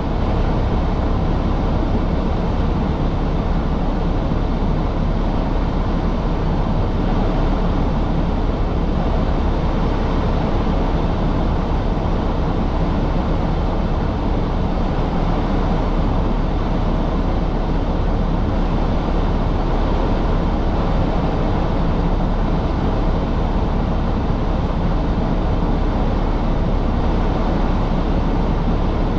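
A truck's engine running steadily, with a low, even rumble and no changes in pitch or level.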